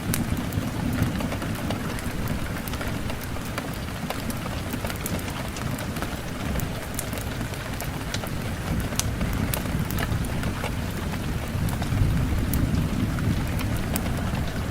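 Steady rain with a low rumble underneath that swells and eases, and scattered sharp crackles and pops from a wood fire.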